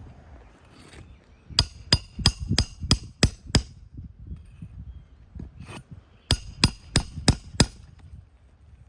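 Shingle hammer striking a roof snake, a steel bar slipped under the shingle, to drive roofing nails. Seven sharp ringing blows come at about three a second, then after a pause five more.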